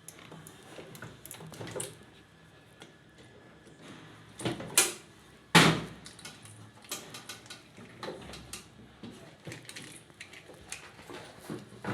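Irregular knocks and clatter of hard objects being handled, with two loud knocks a little before halfway.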